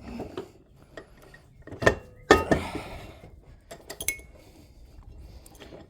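Metal hand tools clinking and knocking as they are handled and set down on a workbench, with the sharpest knocks about two seconds in and a few short ringing clinks near the end.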